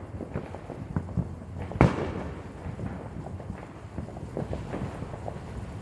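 Fireworks and firecrackers going off all around: a dense, scattered run of small pops, with one louder, sharper bang about two seconds in.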